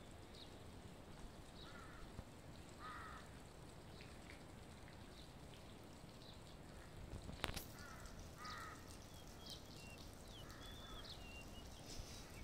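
Faint outdoor quiet with a handful of short bird calls scattered through it, and a single sharp click about seven and a half seconds in.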